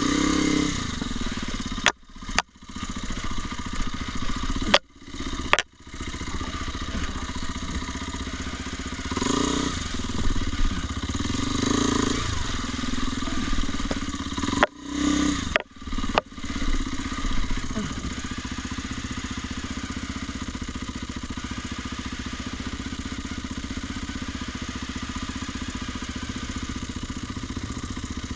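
An engine running steadily throughout. The sound drops out suddenly for a moment about six times in the first half and quickly comes back each time.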